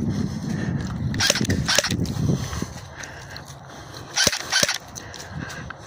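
Airsoft guns firing: sharp snapping shots in two short groups, about a second in and again about four seconds in, over a low rustle of movement during the first couple of seconds.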